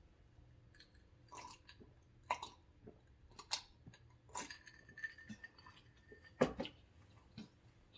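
Faint mouth sounds of someone chewing at the end of a meal: a handful of scattered short smacks and clicks, the loudest about six and a half seconds in.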